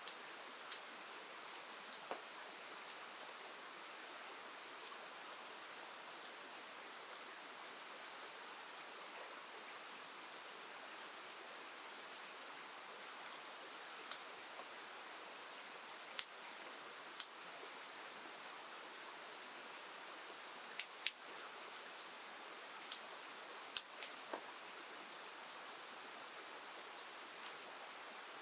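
Steady hiss of rain and a river, with irregular sharp pops and crackles from a wood campfire.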